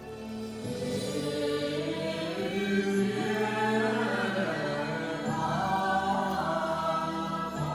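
A group of voices chanting a Buddhist sutra in long held, slowly sliding notes over a steady low drone.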